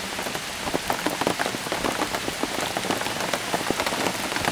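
Steady rain, with many separate drops heard as sharp ticks.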